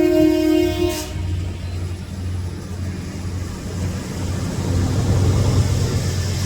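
Freight locomotive horn sounding a chord that stops about a second in, followed by the steady low rumble of the train, which grows a little louder.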